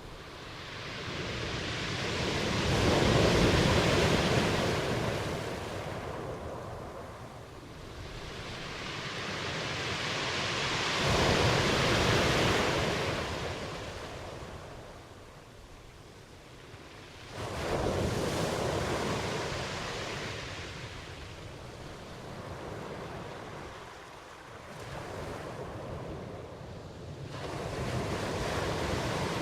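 Ocean waves breaking and washing up the shore in slow surges that swell and fade. The loudest surges come about three and twelve seconds in, a wave breaks more abruptly at about seventeen seconds, and smaller swells follow near the end.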